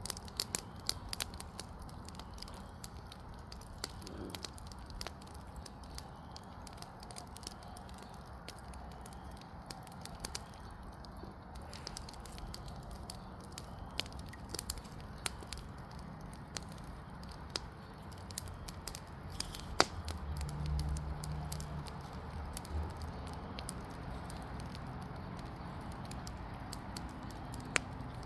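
Fire crackling steadily, with irregular sharp pops, a few of them much louder. A low rumble swells for a couple of seconds about two-thirds of the way through.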